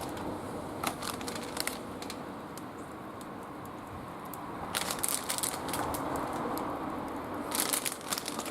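Wood fire crackling in a barbecue grill, with clusters of sharp pops about a second in, around five seconds in, and near the end.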